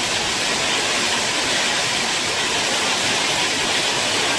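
Torrential thunderstorm rain pouring down in a steady, loud, even rush.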